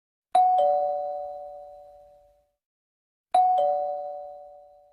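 A two-tone ding-dong chime, a higher note then a lower one, sounded twice about three seconds apart, each ringing out for about two seconds.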